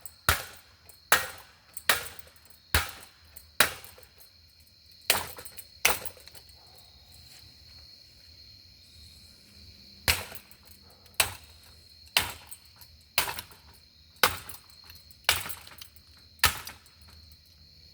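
Repeated hard blows on a ceiling fan, about one a second, in two runs with a pause of a few seconds between them. Crickets chirp steadily underneath.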